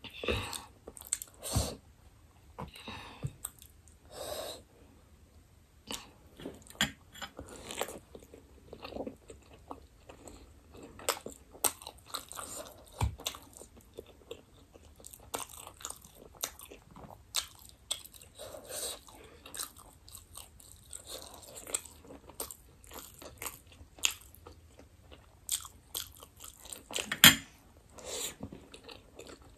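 A person chewing chicken momos (steamed dumplings) close to the microphone, mukbang style, with short mouth clicks at irregular intervals; the loudest click comes near the end.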